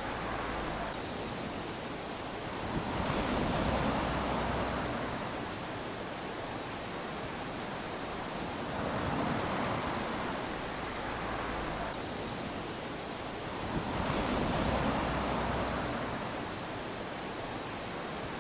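Small sea waves lapping onto a sandy shore: a steady wash that swells as each wave comes in, three times, about every five or six seconds.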